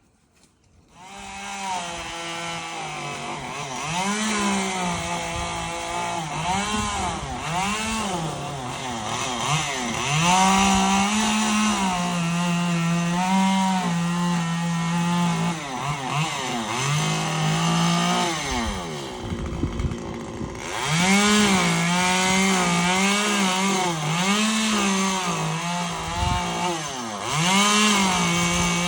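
Chainsaw engine coming in about a second in, then revving up and down over and over as it cuts, with a short drop in speed a little after two-thirds of the way through.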